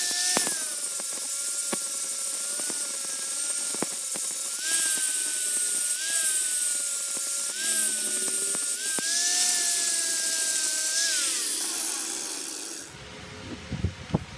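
Angle grinder grinding metal, smoothing down old brazed repairs on a small bench vise. The motor's whine dips in pitch each time the disc is pressed into the work, with loud hissing grinding stretches. Near the end it winds down, followed by a few knocks.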